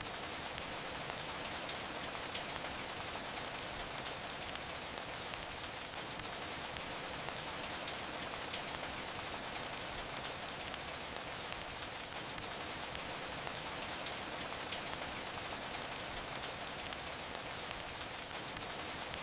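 Steady, even rain, with scattered sharp crackles from a wood fire, a few standing out louder than the rest.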